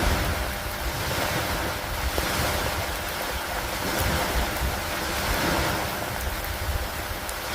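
Steady rain with wind: a dense hiss that swells and eases every few seconds over a low rumble.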